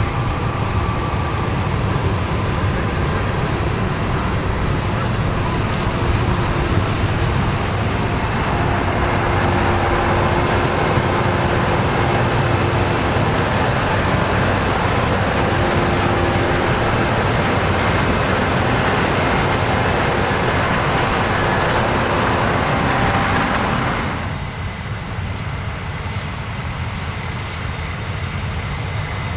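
Heavy diesel farm machinery running steadily in a harvest field, a broad mechanical roar with a low rumble. About four-fifths of the way through, the higher rushing part falls away and a quieter low running sound is left.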